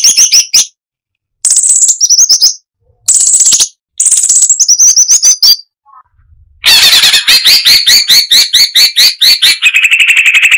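Cucak cungkok (crested finchbill) singing in loud, rapid chattering phrases: four short bursts of quick notes with gaps between them, then a long unbroken run of fast notes from about two-thirds of the way in.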